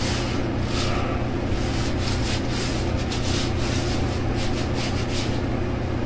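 A run of quick rubbing or scraping strokes, several a second, over a steady low hum; the strokes thin out about five seconds in.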